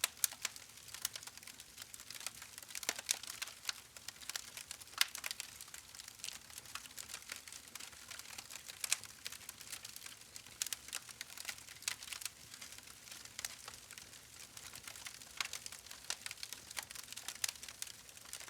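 Wood campfire crackling: irregular sharp pops and snaps, several a second, over a soft hiss of burning.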